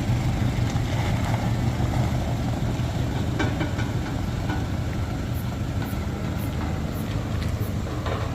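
Heavy diesel engine running steadily at low revs, a deep even hum, with a few faint clicks on top.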